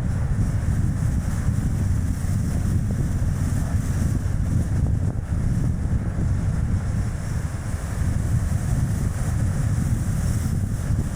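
Strong wind buffeting the action camera's microphone on a moving light car, a steady low rumble mixed with the tyre noise of the car on the road.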